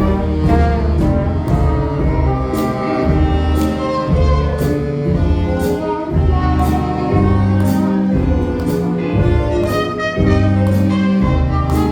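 Live jazz band playing: brass melody over a low bass line, with regular cymbal strokes from the drums.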